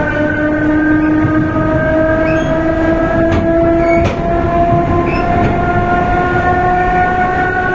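Electric commuter train running, heard from aboard: a steady whine of several tones rising slowly in pitch as the train gathers speed, over the rumble of the wheels on the track. A couple of sharp clicks come about halfway through.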